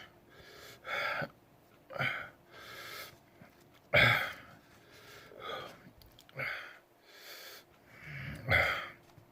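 A man breathing hard in short, noisy gasps, about one a second, the loudest about four seconds in and near the end. He is sucking air over a tongue burned by a Chocolate Jigsaw superhot chili pepper.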